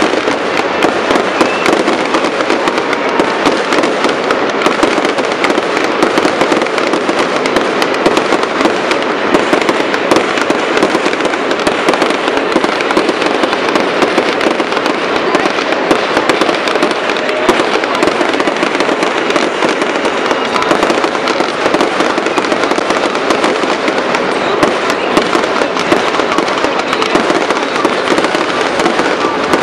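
Fireworks going off in rapid succession: a dense, unbroken crackle of pops and bangs from ground-launched fountains and aerial shells, with no let-up.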